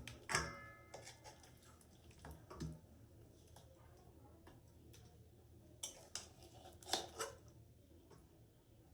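Scattered clinks and knocks of kitchen utensils against dishes or cookware. One clink just after the start rings briefly, and a few more soft knocks come in pairs later on.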